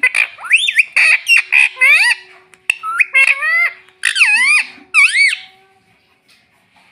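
Ring-necked parakeet (pet parrot) giving a rapid series of loud, short calls, each sliding down and back up in pitch; it falls quiet about five and a half seconds in.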